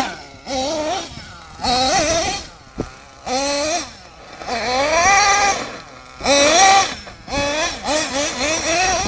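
Small nitro engine of an RC monster truck revving in about six throttle bursts, its pitch rising and falling with each burst.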